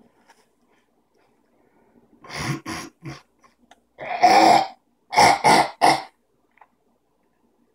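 Repeated harsh coughing and throat-clearing: three short hacks, then one longer rasping one, then three quick hacks.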